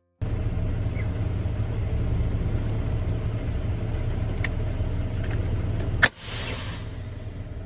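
Semi truck running, a steady low rumble of engine and road noise in the cab. About six seconds in a sharp click cuts it, and a quieter rumble with hiss follows.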